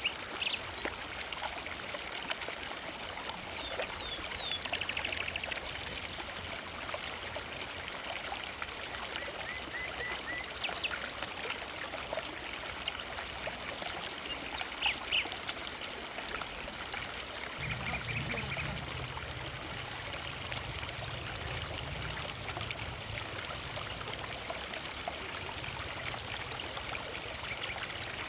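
River water flowing steadily over rocks, with short bird chirps now and then. A low rumble joins about two-thirds of the way in.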